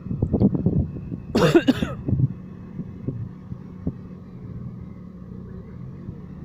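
Car engine running steadily, heard from inside the cabin, with a person coughing once about a second and a half in.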